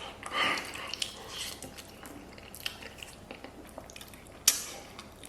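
Chewing and biting braised pig's trotter: soft mouth sounds with scattered small clicks, a louder burst about half a second in, and one sharp click about four and a half seconds in.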